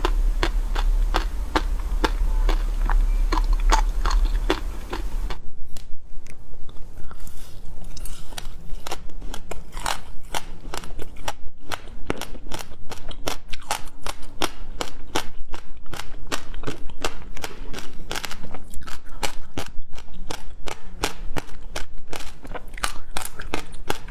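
Frozen passion fruit ice being bitten and chewed close to the microphone: rapid sharp crunching cracks, several a second. A low hum under the first five seconds stops abruptly.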